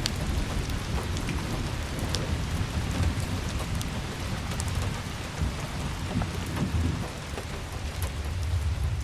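Steady rain with a low, rolling rumble of thunder underneath and scattered sharp drips.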